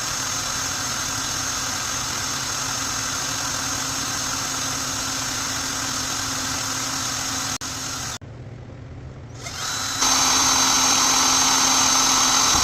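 Power drill running steadily with a small bit, drilling lubrication holes through an aluminium two-stroke piston. It stops about eight seconds in, then runs again, louder, for the last couple of seconds.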